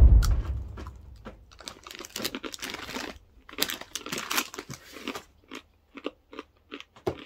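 Crunchy almond butter-filled pretzel bites being chewed, with the plastic snack bag crinkling as it is handled over the first few seconds; after that, steady crunching chews, about two or three a second. A gust of wind hits the microphone right at the start.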